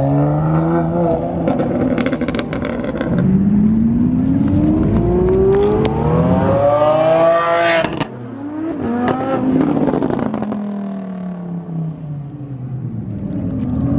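High-performance car engine revving and accelerating hard. Its pitch climbs for about five seconds, then drops sharply at a shift or lift-off about eight seconds in. There are exhaust crackles and pops early on, and further rises and falls of engine pitch as cars pull away.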